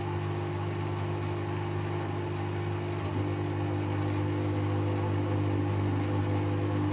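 Servis M3008B washing machine on its 500 rpm intermediate spin: steady motor hum and drum whir, getting slightly louder about three seconds in.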